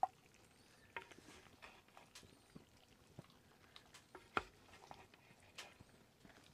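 Faint, scattered small clicks and taps over a quiet background, the loudest about four seconds in.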